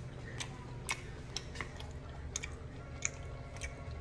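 Quiet chewing of a taste of cooked cabbage, with scattered small clicks and mouth smacks over a low steady hum; the taster finds it needs more salt.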